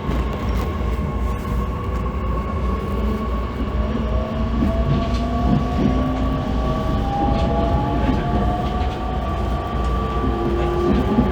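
Interior running sound of a JR East E501 series electric train motor car: traction motor and inverter whine rising steadily in pitch as the train accelerates, over the steady low rumble of the wheels and bogies on the rails.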